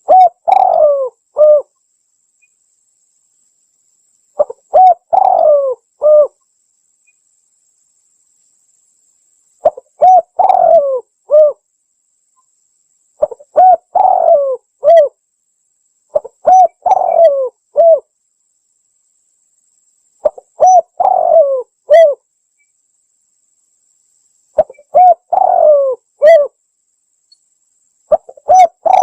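Spotted dove (tekukur) cooing, a lure call for trapping the bird: a phrase of a few short coos and a longer rolling note, repeated about every three to five seconds, eight times.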